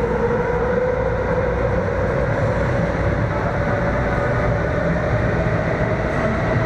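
Steady vehicle rumble with a drone that rises slowly in pitch, like a car moving and gently gaining speed, heard from close by.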